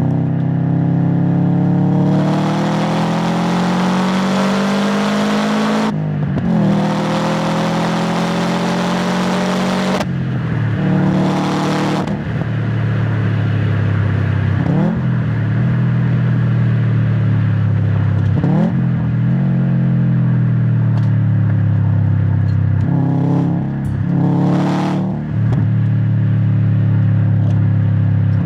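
Subaru WRX STI's turbocharged EJ257 boxer engine, heard at the exhaust, accelerating hard through two gears. The pitch climbs and drops sharply at each upshift. The driver then eases off and the pitch sinks slowly, broken by several short blips of revs.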